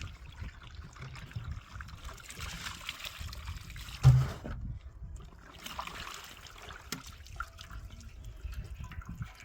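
Water trickling and pouring in two spells, with one loud thump about four seconds in.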